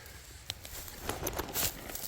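Rustling and crunching as someone moves through bracken and grass, with one sharp snap about half a second in and a brief cluster of crackles a little past the middle.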